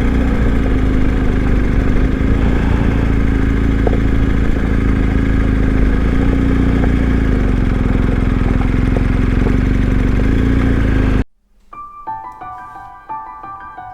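Engine and road noise of a BMW GS Adventure motorcycle's boxer-twin engine running steadily while riding. About eleven seconds in it cuts off abruptly, and soft piano music follows.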